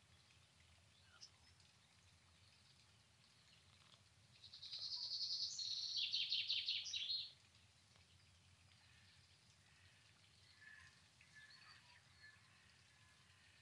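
A songbird sings one loud phrase of about three seconds, a high run of rapidly repeated notes that stops abruptly, with a few fainter bird calls later, over a faint steady low background noise.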